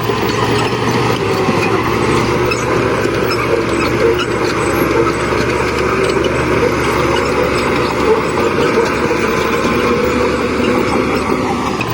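Heavy earthmoving machinery running: a steady, loud diesel engine sound.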